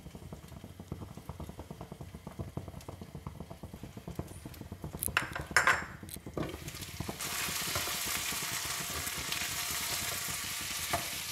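Prawns frying in a covered kadai, a muffled crackle under the glass lid. About five seconds in the glass lid clinks as it is lifted off, and the sizzle turns louder and brighter as the uncovered prawns are stirred with a spatula.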